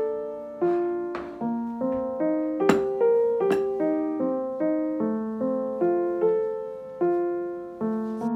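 Background music: a gentle piano melody of single struck notes, each ringing and fading, at about two notes a second. Two sharp clicks come near the middle.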